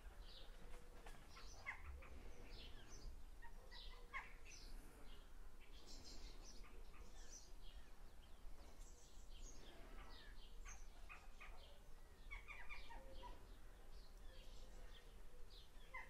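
Faint birdsong: many short chirps and trilled calls, scattered and overlapping.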